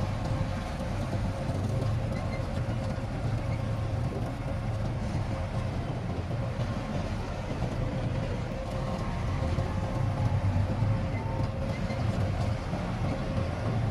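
Heavy diesel earthmoving machinery running steadily, a deep engine rumble with a faint steady whine over it.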